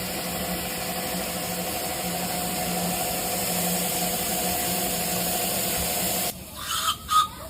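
A rail locomotive running: a steady hiss with a low hum that cuts off suddenly about six seconds in, followed by a couple of short, higher sounds near the end.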